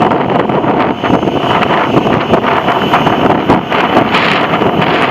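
Wind buffeting the microphone: a loud, rough rushing that flutters unevenly throughout.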